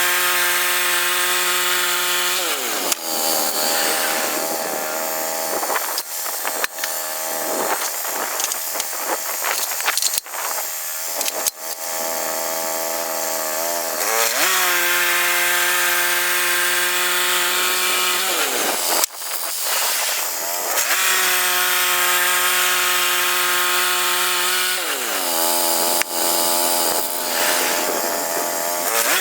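Woodland Mills HM122 portable band sawmill running: its gasoline engine holds a steady high speed, then slows and speeds back up several times, with the sawing noise of the band blade and a few knocks.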